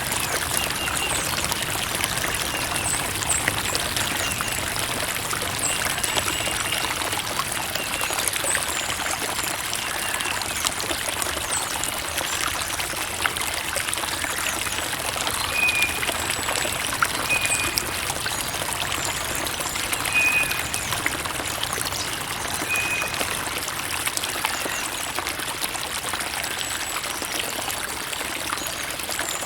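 Creek water trickling and running steadily.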